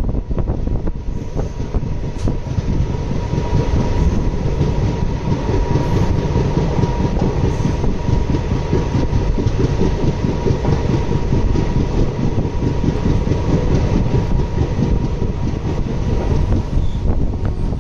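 Indian Railways express train running along the track: a steady rumble of the coaches with wheels clicking over rail joints, and a thin steady whine over it.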